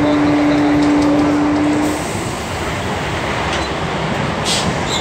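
Running noise of a MEMU electric train heard from inside a passenger coach. A steady single tone over the rumble cuts off suddenly about two seconds in.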